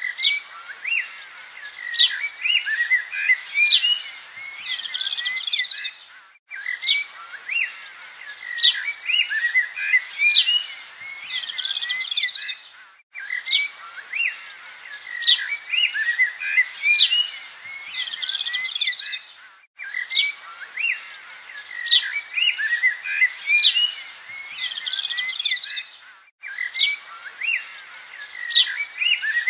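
Recorded birdsong looped as a soundtrack: the same few seconds of chirps, whistles and quick trills repeat about every six and a half seconds, each repeat cut off by a brief silent gap.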